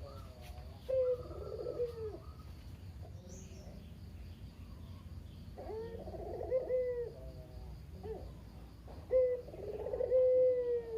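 A local puter dove cooing its rolling "kugeru" call, three phrases a few seconds apart.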